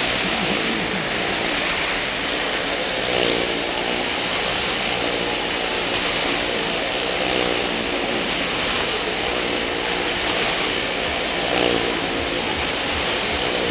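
Cars and a motorcycle circling the plank wall of a well-of-death drum, their engines revving continuously, the pitch rising and falling and the sound swelling every few seconds as vehicles pass.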